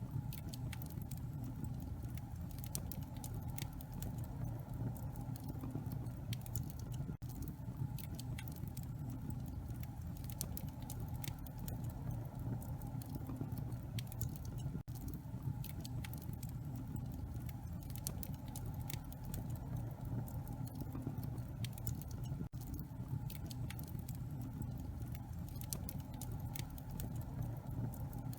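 Wood fire burning in a fireplace: a steady low rumble of flames with irregular sharp crackles and pops from the logs. Very brief gaps in the sound come about every seven or eight seconds.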